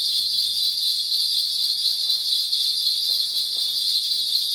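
A steady high-pitched hiss that does not change, with no other clear sound above it.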